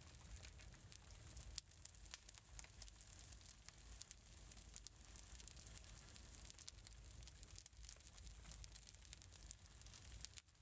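Faint wood fire crackling in a fireplace: scattered pops and snaps over a steady soft hiss and low rumble.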